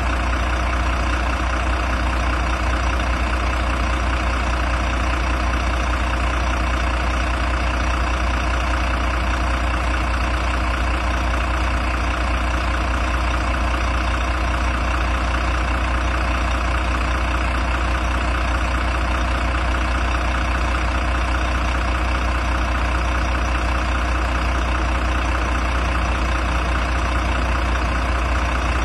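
Volvo FM 300 truck's diesel engine idling steadily.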